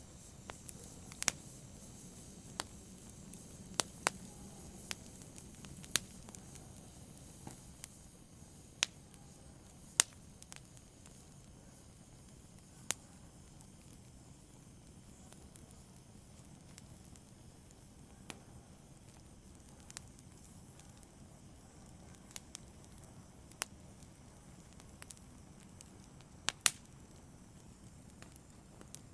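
Wood fire burning in a fireplace: a soft steady hiss with irregular sharp crackles and pops, several seconds apart, more frequent in the first half.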